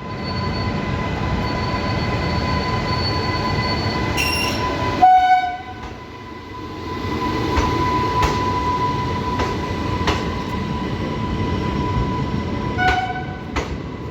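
WAP-5 electric locomotive hauling a passenger train through the station, the train running with a steady rumble. Its horn sounds short blasts about four seconds in and again near the end.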